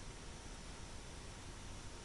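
Quiet room tone: a faint, steady hiss with no distinct events.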